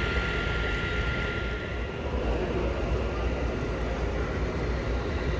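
Steady background noise of a busy exhibition hall: a low rumble and hubbub, with a faint steady tone that fades out about two seconds in.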